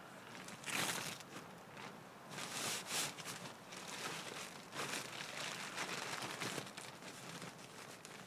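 Irregular rustling and crinkling of camping gear being handled, in several louder bursts over a steady faint hiss.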